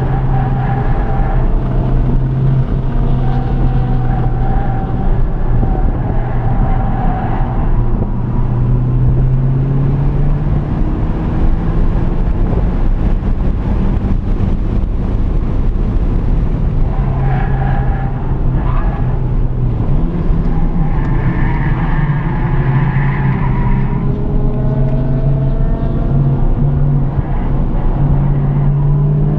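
Cabin sound of a Honda Civic Type R (FK8) at track pace, its turbocharged 2.0-litre four-cylinder running hard. The engine note climbs and drops with the revs as the car accelerates and slows for corners, over a steady rush of wind and tyre noise.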